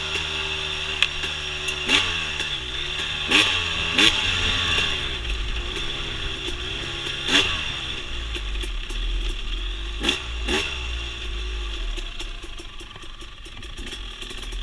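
Dirt bike engine running, its pitch rising and falling as the throttle is opened and closed, with sharp knocks every few seconds. It drops lower and quieter near the end.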